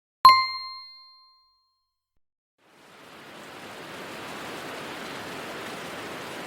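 A single bright chime struck once, ringing out and dying away over about a second. Then a steady outdoor hiss fades in and holds.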